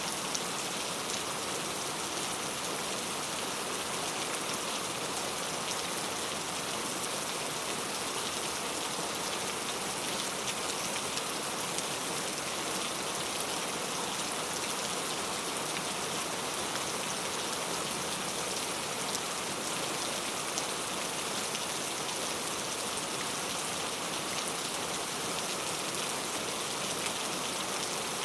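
Heavy rain falling steadily and evenly, a dense hiss of drops hitting hard surfaces.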